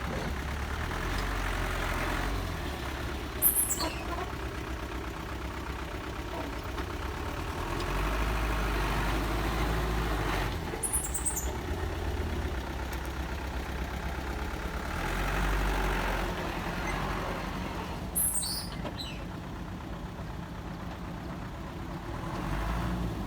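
Heavy diesel engine of earth-moving machinery running steadily, swelling louder under load about every seven seconds. Three brief high squeals, each falling in pitch, come about 3.5, 11 and 18 seconds in; the first is the loudest moment.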